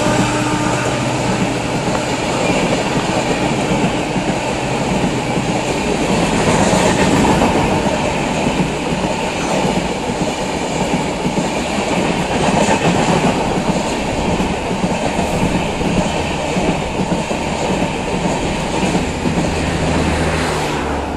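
An express train's passenger coaches running past a station platform at speed without stopping: a loud, steady rush of wheels on rails.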